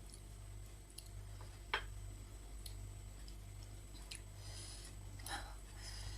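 Close-up eating sounds: soft chewing with faint crisp, wet noises, and a sharp click about two seconds in and a smaller one about five seconds in. A low steady hum runs underneath.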